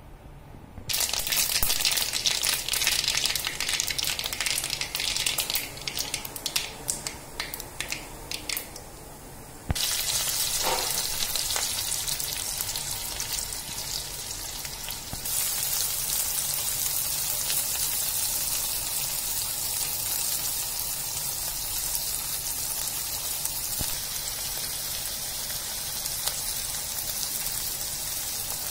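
Hot oil frying in a pan. For the first several seconds mustard seeds crackle and pop in the oil. After a cut there is a steadier sizzle, stepping up about halfway through as green chillies and then chopped onions fry for an upma tempering.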